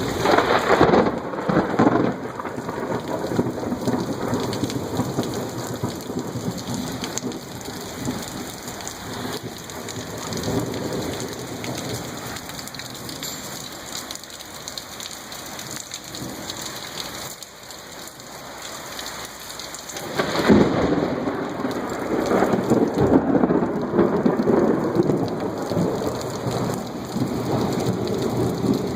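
Heavy rain pouring steadily during a thunderstorm, with loud thunder. A clap in the first second or two rumbles away over several seconds, and a second loud peal about twenty seconds in rolls on for several seconds more.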